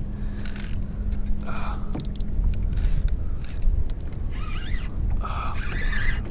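Spinning reel clicking and whirring in short spells while a hooked redfish is played, over a steady low rumble.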